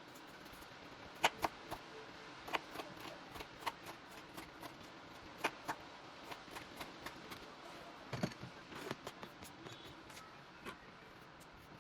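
Irregular light clicks and taps of small objects being handled, with a duller knock about eight seconds in.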